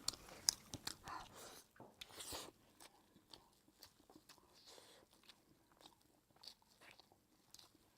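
Faint chewing and mouth clicks of someone eating a hot sticky-rice pork zongzi, busiest in the first couple of seconds and then dying away to occasional small ticks.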